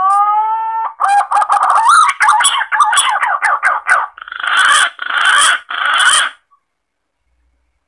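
Green pigeon (punai) song used as a hunting lure call. It opens with a long rising whistle, goes into a quick wavering run of whistled notes, and ends with three harsh notes, stopping about six and a half seconds in.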